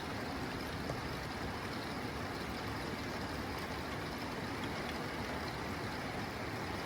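Heavy rain falling steadily on a tin roof, an even, unchanging rush of patter.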